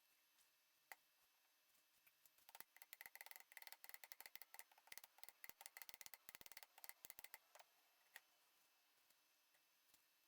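Faint, rapid, irregular metallic clicking of hand work on metal parts, running from about two and a half seconds in to about seven and a half seconds, with single clicks about a second in and near eight seconds.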